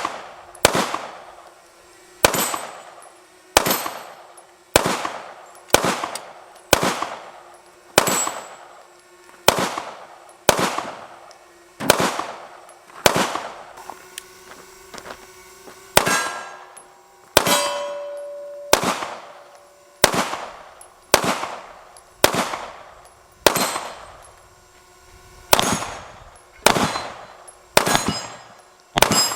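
SIG Sauer P320 M18 9mm pistol fired in steady slow fire, about one shot a second, with a short pause about halfway through.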